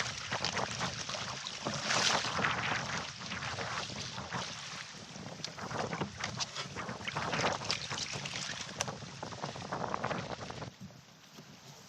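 Water splashing and slapping around a canoe in choppy, windy conditions, with wind buffeting the microphone. The sound is a dense run of irregular splashes that drops away sharply near the end.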